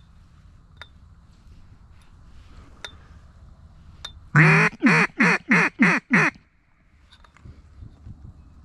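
Mallard duck call blown by a hunter at circling ducks: a sequence of six loud quacks about a second and a half in from the middle, the first one drawn out and the next five shorter and evenly spaced.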